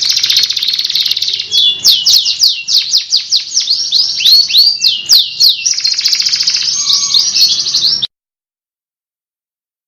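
Domestic canary singing: fast rolling trills, then a run of quick sweeping whistled notes, then rolling trills again. The song cuts off abruptly about eight seconds in.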